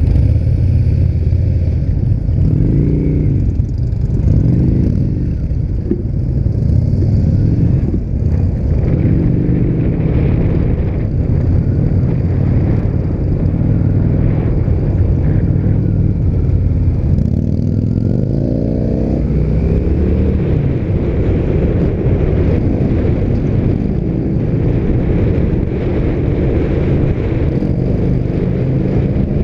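Indian motorcycle's V-twin engine running under way, revving up and easing off several times, its pitch climbing steeply once about two-thirds of the way through as it accelerates.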